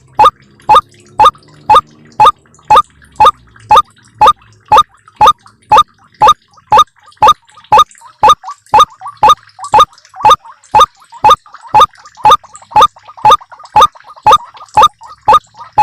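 White-breasted waterhen lure call: a short, sharp note repeated steadily about twice a second, played to draw waterhens in.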